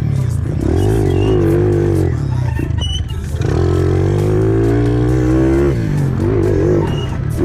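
Pit bike engines revving and running under throttle, with background music playing.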